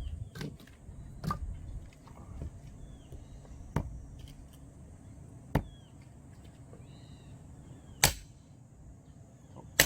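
Axe striking firewood being split: about six sharp chops at uneven intervals, the two loudest near the end.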